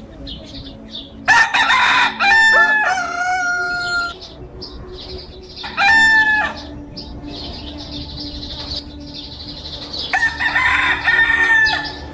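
Roosters crowing: three crows, the first one long and drawn out, the second short, the third near the end.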